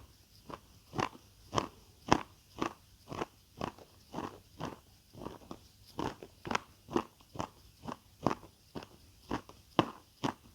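Close-miked chewing of crunchy food, a steady run of crisp crunches about two a second.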